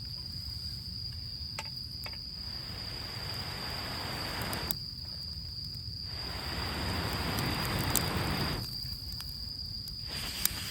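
Crickets trilling steadily on one high note, with three long rushing whooshes of air about two and a half seconds each and a few sharp crackles from a small campfire of damp wood catching.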